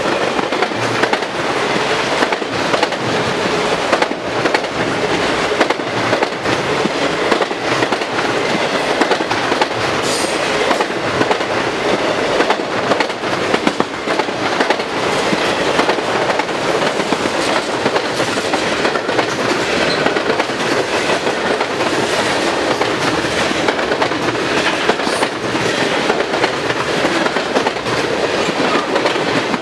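Freight cars of a manifest train rolling past: a steady rumble and rattle with the rapid clickety-clack of steel wheels over the rail joints.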